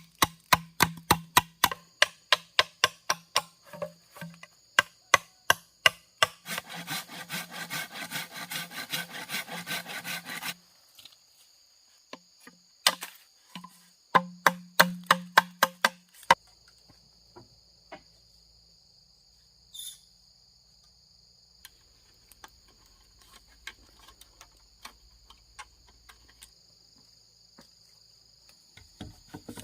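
Wood being chopped with a blade: sharp strikes about three a second, a faster, denser run of strikes in the middle, then a few more strikes before they stop about sixteen seconds in. After that, steady high insect chirring, like crickets.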